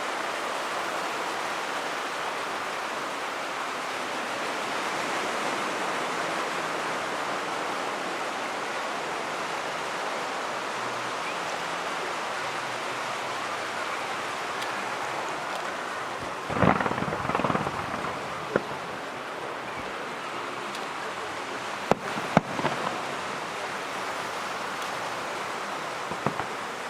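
Fireworks display: a steady rushing noise, with a cluster of sharp bangs about two-thirds of the way through and a few more toward the end.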